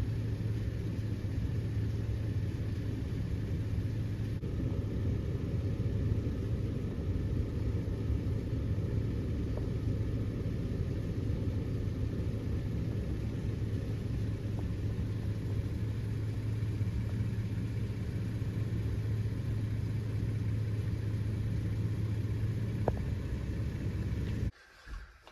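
Steady low mechanical rumble with a strong low hum, unchanging throughout, cutting off suddenly near the end.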